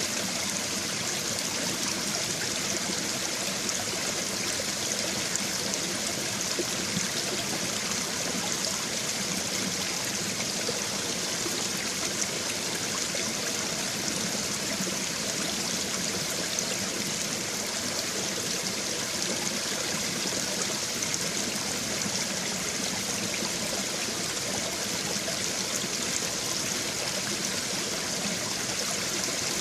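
Small brook babbling over stones: water running and trickling steadily, an even rushing hiss.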